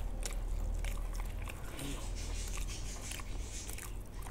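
Close-up chewing and eating sounds: scattered small mouth clicks and smacks as food is chewed and bitten.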